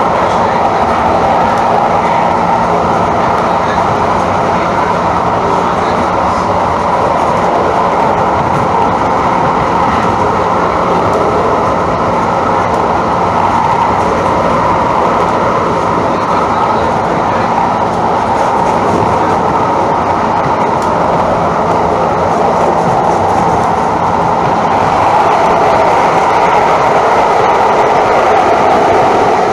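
Calgary CTrain light-rail car running on the track, heard from on board: a steady running noise of wheels on rails with a faint low hum, growing a little louder near the end.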